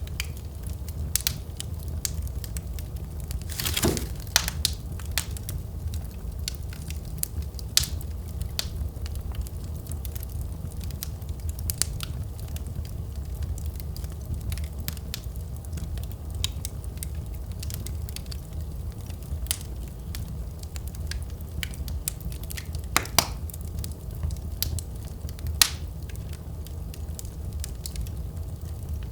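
Fireplace fire crackling: scattered sharp pops and snaps over a steady low rumble, with a louder hissing crackle about four seconds in and a few louder pops later on.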